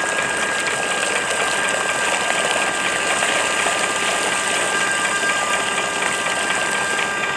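Small DC-motor water pump running steadily, a high motor whine over a hissing rush.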